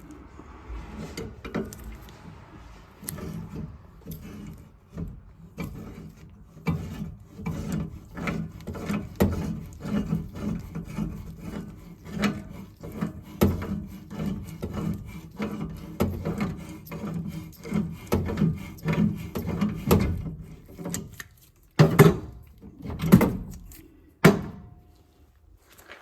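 Wrench work on a furnace's gas piping fittings: a long run of quick clicks, knocks and scrapes, a few a second, with three louder knocks near the end.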